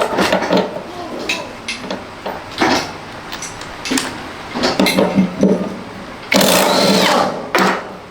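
Repeated knocks and clanks of hands and tools working on washing machine parts, with a louder rasping burst lasting under a second about six and a half seconds in.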